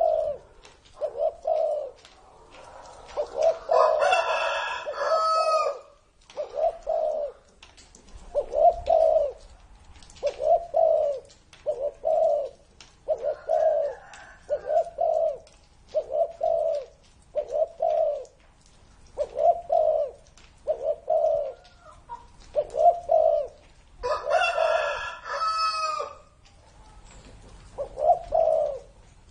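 Spotted dove cooing: deep coo notes repeating about once a second in short phrases. Twice, about four seconds in and near the end, a longer, brighter call with many overtones breaks in over the cooing.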